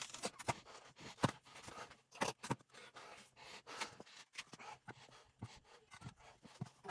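Irregular clicks and light knocks of tools and metal parts being worked while taking apart a transfer case.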